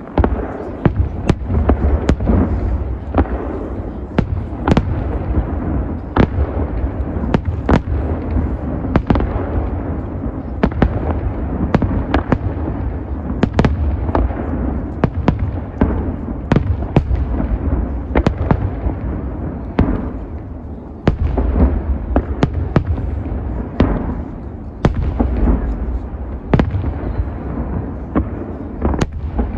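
Large aerial fireworks display: a rapid, continuous run of sharp shell bursts over a steady low rumble, easing briefly about twenty seconds in before building back up.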